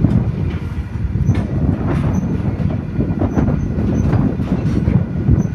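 Freight train wagons rolling past close by: a heavy low rumble with repeated wheel clicks over rail joints and faint squealing from the wheels.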